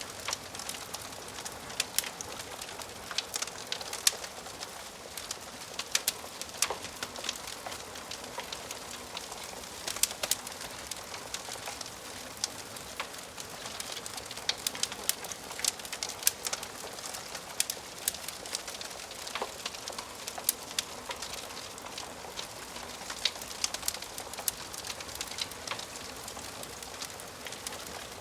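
Wood fire crackling in a fireplace: a steady hiss with frequent irregular sharp pops and snaps from the burning wood.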